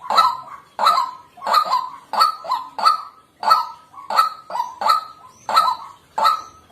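White-breasted waterhen calling: a loud call repeated over and over in a steady rhythm, about two calls a second, some coming in quick pairs.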